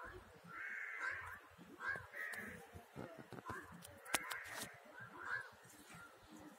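Birds giving a series of short, harsh calls, several in quick succession, with a single sharp click about four seconds in.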